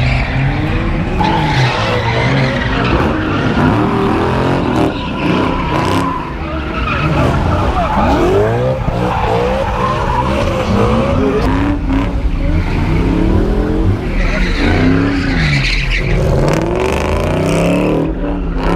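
Car engines revving hard, their pitch climbing and dropping over and over, with tyres squealing as a car skids.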